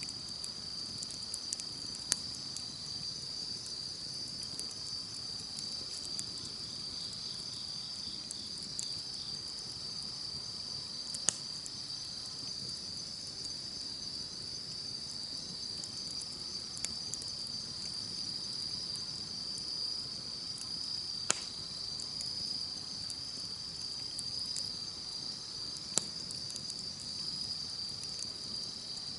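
Insects chirring in a steady, unbroken high-pitched drone over a softly burning campfire, with a few sharp crackling pops from the fire, about four in all.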